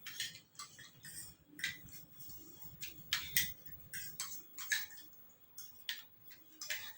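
Close-up eating sounds: an irregular string of about a dozen short clicks and smacks from chewing and handling the seafood papaya salad, with light clinks of dishes.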